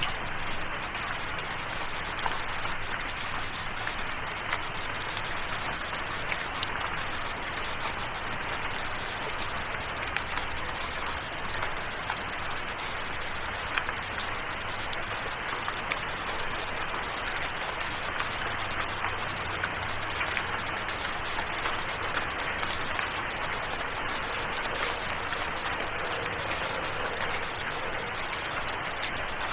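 Steady rain, an even hiss with scattered sharper drop ticks, over faint low sustained tones of soft background music.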